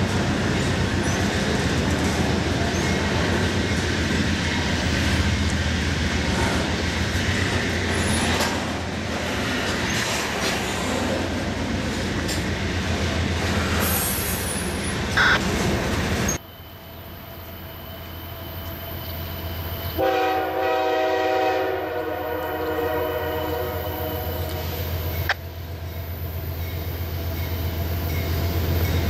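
Double-stack intermodal container train rolling past close by, the noise of its wheels on the rails. Then a freight locomotive approaching in the distance sounds a long multi-note air horn for about five seconds, and its diesel rumble grows steadily louder as it nears.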